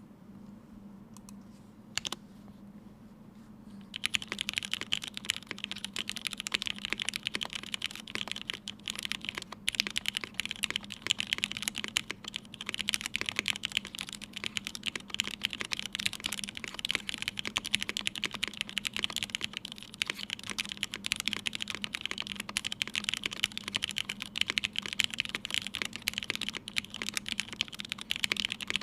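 Typing on a Matrix Vita mechanical keyboard with lubed and filmed Hyperglide Red linear switches on an aluminium plate, fitted with GMK Pixel ABS keycaps. A single keystroke about two seconds in, then steady fast typing from about four seconds on.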